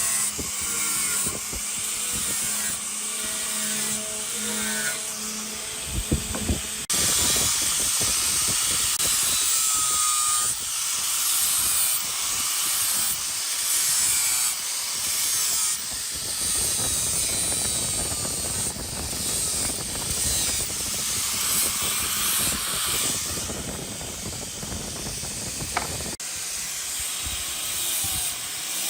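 Power tools working wood, a steady hissing noise that changes abruptly about a quarter of the way in and again near the end.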